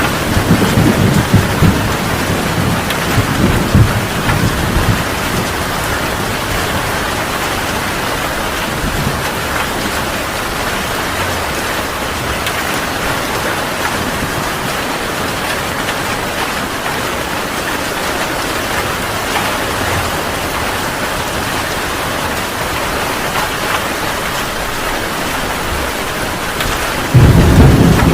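Heavy rain falling steadily, with a rumble of thunder dying away over the first few seconds and another loud thunder rumble breaking in suddenly near the end.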